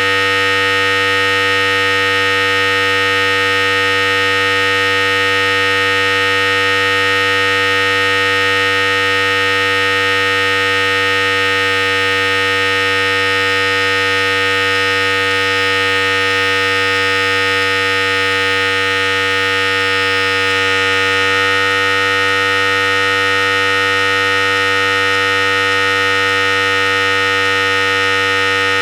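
Philips Series 5000 electric hair clipper running continuously with a steady, even motor buzz. A slight shift in the upper tones comes about three-quarters of the way through.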